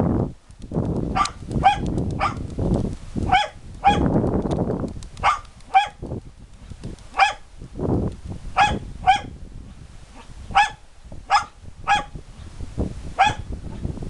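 A pet bird giving short, harsh, bark-like calls, mostly in pairs about half a second apart, about a dozen in all, over a low rumble.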